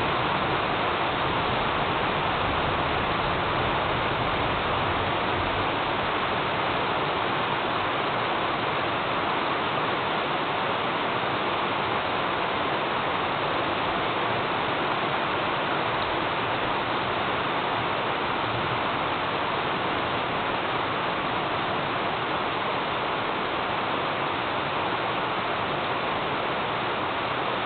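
Thunderstorm rain falling steadily, an even hiss with no thunderclap.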